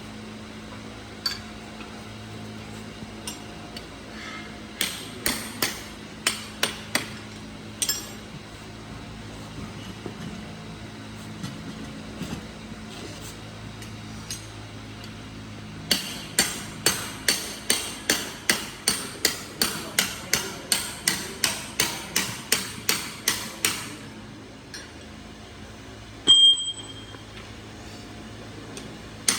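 Hammer striking metal: a few scattered blows, then a steady run of about three blows a second for some eight seconds. Near the end a short metallic ring, over a low steady hum.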